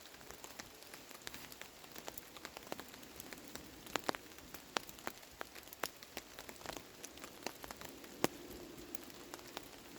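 Steady rain falling on a surface, with irregular sharp pops and crackles from a small wood campfire, a few louder pops about four, five and eight seconds in.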